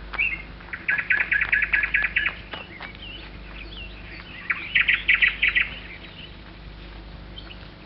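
Songbirds chirping, with two quick rapid trills, the first about a second in and the second near the middle, and short single chirps in between.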